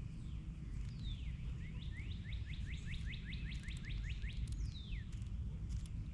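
A songbird singing. A clear whistle slides down in pitch, then comes a fast run of more than a dozen short rising whistles, then another falling whistle, all over a steady low rumble with scattered clicks.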